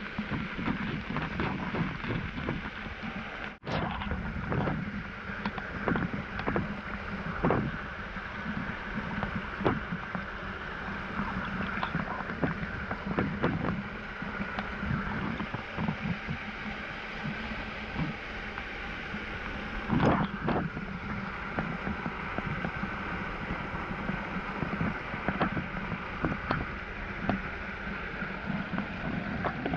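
Waterfall rushing steadily, with frequent splashes of water throughout and a brief break about three and a half seconds in.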